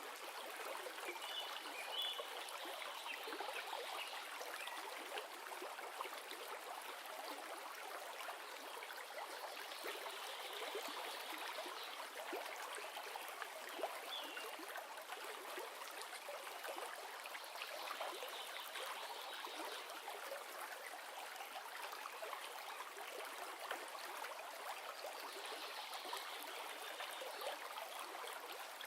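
River water flowing steadily: a continuous, even rush and trickle of running water.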